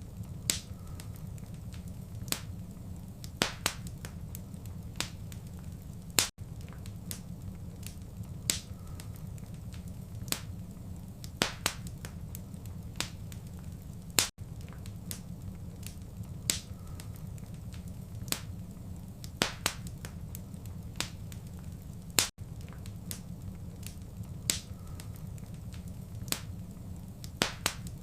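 Wood fire crackling: irregular sharp pops and snaps over a steady low rumble of the flames. The sound cuts out for an instant about every eight seconds, where the recording loops.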